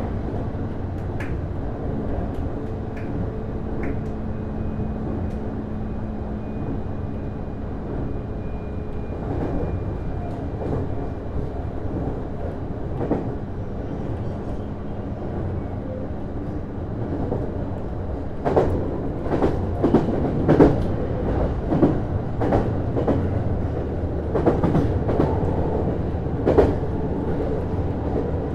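JR East HB-E210 series hybrid diesel railcar running, heard from inside the car: a steady rumble with a faint steady drive tone that fades out in the first half. From about two-thirds of the way through, the wheels clatter sharply and irregularly over track joints.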